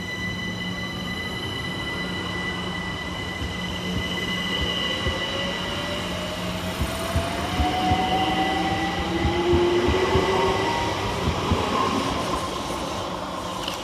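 London Overground Class 378 electric multiple unit pulling away and accelerating: its traction motors whine, rising steadily in pitch, over a steady high hum. Wheels click over rail joints as it gets going, loudest about ten seconds in, then fading as it moves off.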